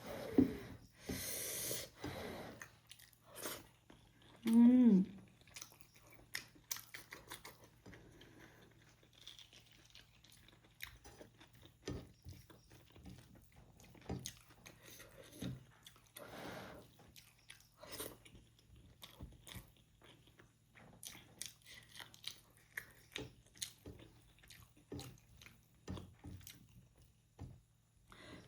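Close-miked eating of rajma and rice: soft, irregular chewing and mouth smacks. There is a louder noisy rasp about a second in and a brief hummed voice sound about five seconds in.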